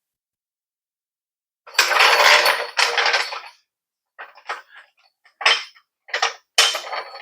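Metal tool and parts clatter: a loud rattling burst lasting about two seconds, then a string of short sharp metallic clacks about every half second.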